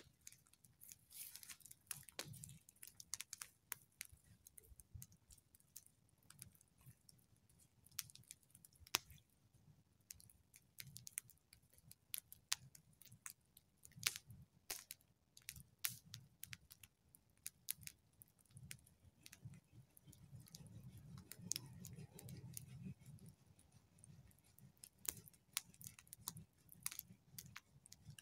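Burning wood in a campfire crackling and popping in quick, irregular snaps, with a faint low rumble swelling briefly about two-thirds of the way through.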